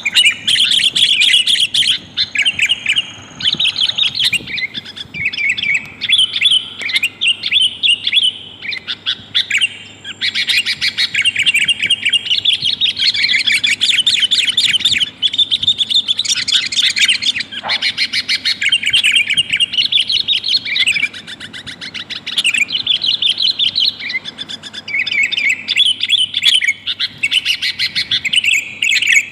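Sooty-headed bulbuls calling, a dense run of quick, bubbly chattering notes with only brief pauses: the calls of a female calling a male, used as a lure to bring wild bulbuls down.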